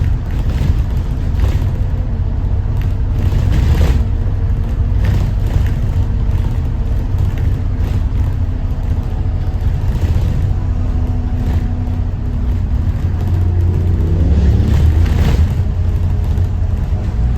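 Thomas Saf-T-Liner C2 school bus under way: its Detroit diesel engine running with a heavy low rumble, mixed with road noise and short rattles and knocks from the body. The engine note rises for a couple of seconds about three-quarters of the way through as the bus pulls harder.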